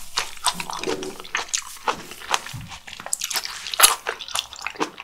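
Close-up chewing of Shine Muscat grapes: a dense, irregular run of crisp, juicy crunches and mouth clicks.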